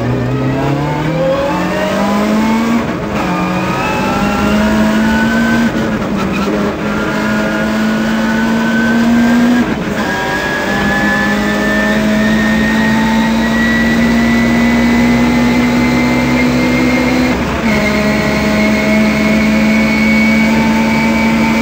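Citroën Saxo rally car's engine heard from inside the cabin, pulling hard on a gravel stage: the revs climb and drop back at upshifts about three seconds in, about ten seconds in and once more later on, holding high between them, over steady road noise.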